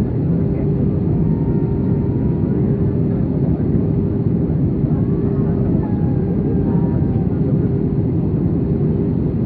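Cabin noise inside an Airbus A320 in descent: a steady, loud roar of engines and airflow with a constant hum.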